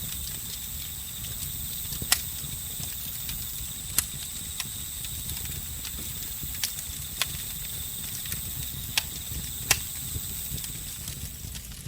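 Wood campfire crackling, with about seven sharp isolated pops at irregular intervals over a low steady rumble of the burning fire. Behind it, crickets and other night insects keep up a steady high chirring.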